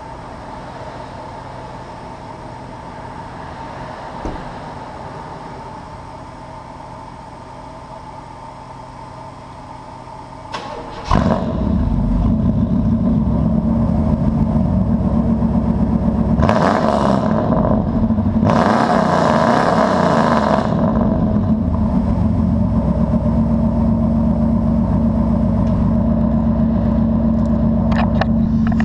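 Straight-piped true dual exhaust of a 1997 Chevrolet Silverado Z71's 350 Vortec V8. The engine starts suddenly about eleven seconds in and settles into a loud idle, is revved twice in quick succession, the second rev held longer, then drops back to idle.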